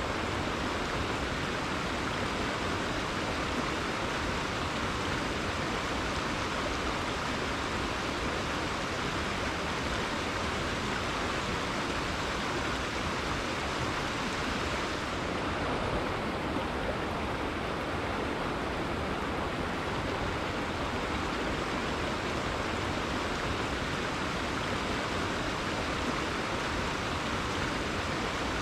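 Rainforest river flowing: a steady, even wash of running water with no breaks.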